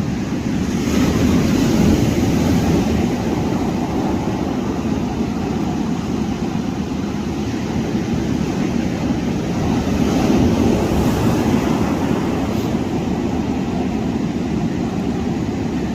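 Ocean surf and wind on the microphone, a steady noise that swells about a second in and again around ten seconds.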